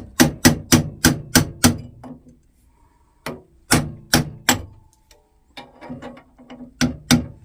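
Hammer blows on metal, about three to four a second in three runs with short pauses between, each strike ringing briefly. They are knocking the old top-mount bearing off a Fiat 500 front suspension strut, a bearing the mechanic takes to be badly worn.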